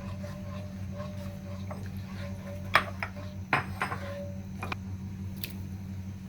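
A few sharp clinks of a utensil against cookware, the loudest two about three and three and a half seconds in, over a steady low hum.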